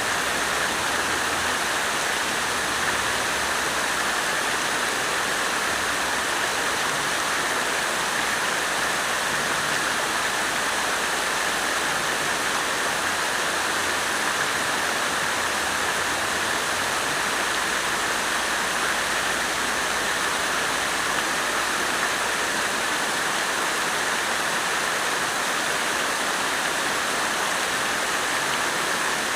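Water fountain splashing steadily, a continuous even rush of falling water.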